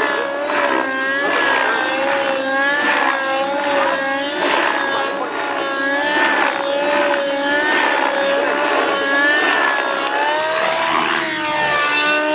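Radio-controlled model helicopter in flight, its engine and rotors giving a steady high drone whose pitch wavers up and down about once a second as it manoeuvres.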